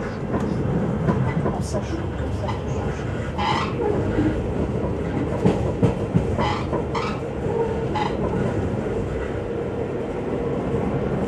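Passenger train running on rails, heard from on board: a steady rumble of wheels on track, with clicks and clatter over rail joints and a few short, sharper rattles in the middle.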